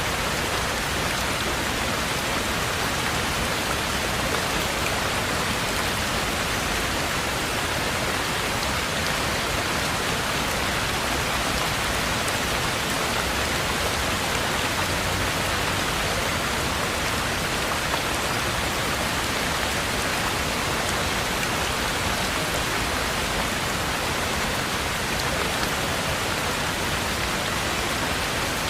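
Heavy rain falling steadily, a dense even hiss of drops on a surface, unchanging throughout.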